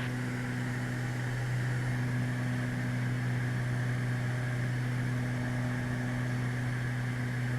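Steady cabin drone of a Beechcraft Baron G58's twin piston engines in cruise-to-approach flight: an even low hum with hiss over it.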